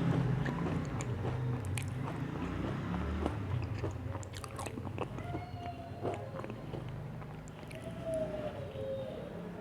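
Close-miked chewing of crunchy chocolate biscuits, with short crackling crunches that come thicker in the first few seconds, then softer mouth sounds.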